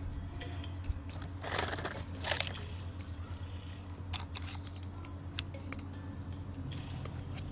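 Plastic toy truck being handled and played with: scattered light clicks and knocks, with two short scraping, rattling noises about one and a half and two and a half seconds in, over a steady low hum.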